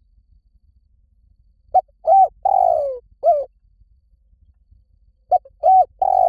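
Spotted dove cooing. Two phrases are heard, about three and a half seconds apart. Each is a short note, a double coo, a long falling coo and a short closing note.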